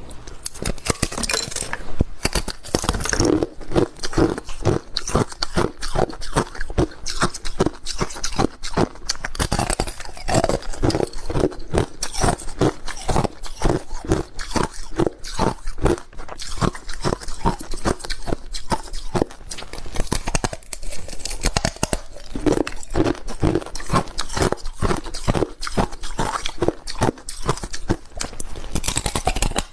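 Crushed ice being chewed close to the microphone: a dense, continuous run of sharp crunches, several a second.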